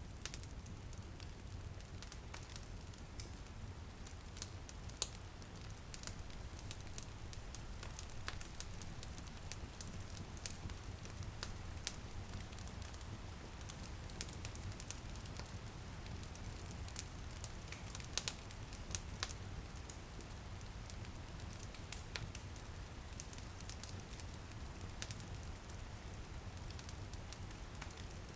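Wood fire crackling in a fireplace, with irregular sharp pops over a soft steady low rumble, and light rain pattering against a window.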